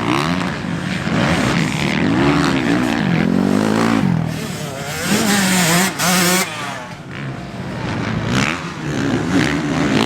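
Motocross dirt bike engine heard from the rider's helmet camera, revving up and falling back again and again as the throttle is worked through the track. A burst of rushing noise comes about halfway through.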